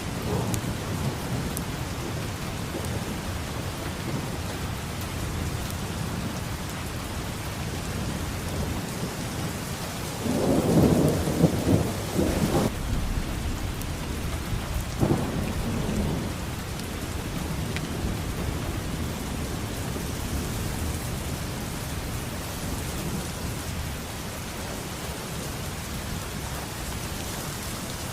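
Steady heavy rain falling, with thunder rumbling: a louder roll of thunder about ten seconds in lasting a couple of seconds, and a shorter clap a few seconds later.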